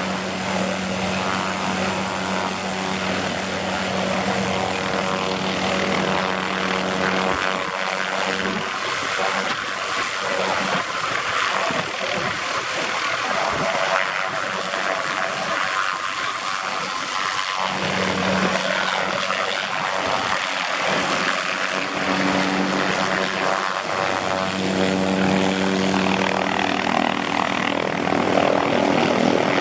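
MD Helicopters MD530FF helicopter running: a high turbine whine from its Rolls-Royce (Allison) 250-C30 turboshaft over the steady drone of the rotor. The rotor's low hum fades out for about ten seconds in the middle, comes back, and the sound grows a little louder near the end.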